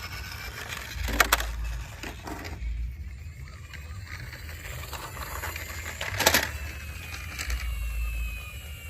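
Diecast toy vehicles being handled, with two sharp clicks or knocks, about a second in and again about six seconds in, over a low rumble that comes and goes.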